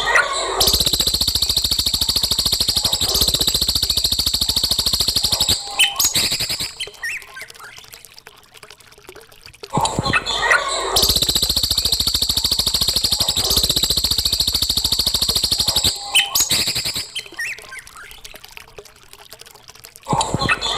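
Looped bird-song training recording: a dense, high-pitched trill lasting about five seconds, followed by several seconds of softer scattered chirps, the same pattern repeating about every ten seconds.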